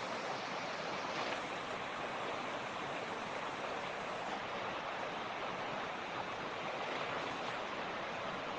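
Mountain creek rushing steadily over rocks, an even, unbroken water noise.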